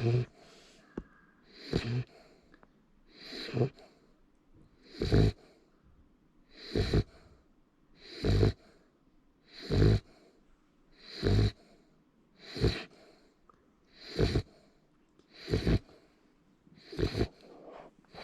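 Labrador Retriever puppy snoring in its sleep: a steady rhythm of about a dozen snores, roughly one every second and a half, each with a low rattle and a breathy hiss.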